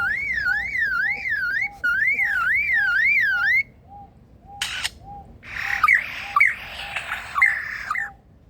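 Superb lyrebird mimicking: first a loud whistle that wavers rapidly up and down, about three sweeps a second, like an electronic alarm, for about three and a half seconds. Then, after a short burst, come rougher chattering calls with sharp whistled notes. A faint pip repeats about twice a second in the background.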